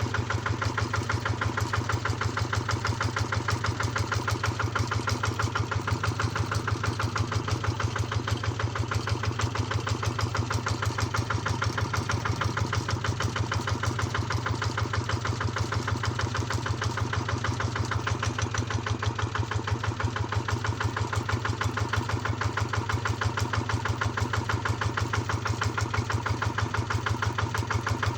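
Engine running steadily at one speed, with a rapid, even pulse.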